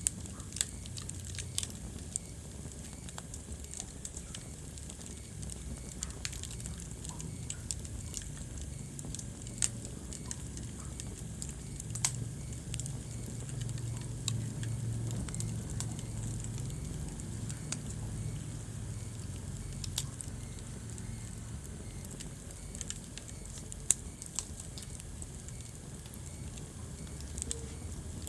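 Wood fire burning in a fireplace: a steady low rumble of flame with irregular sharp crackles and occasional louder pops.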